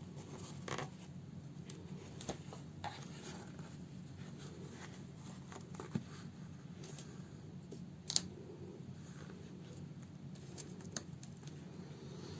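Hand-sewing a fabric house slipper: the needle and thread are pulled through the cloth in short scratchy rasps with light clicks, and one sharper click comes about eight seconds in.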